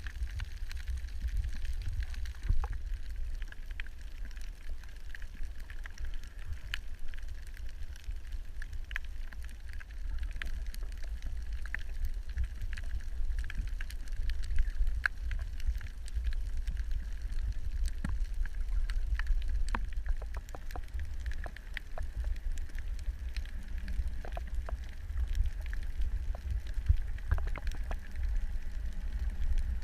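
Underwater ambience on a coral reef: a steady low rumble with a faint steady mid-pitched hum, and scattered sharp clicks and crackles throughout.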